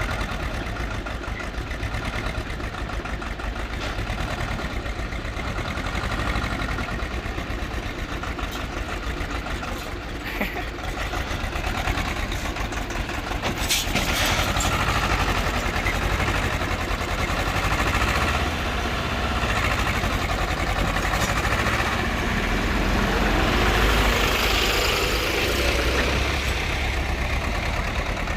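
Tractor diesel engine running steadily under load while pulling a loaded trolley, with a sharp knock about fourteen seconds in. It grows louder around three-quarters of the way through.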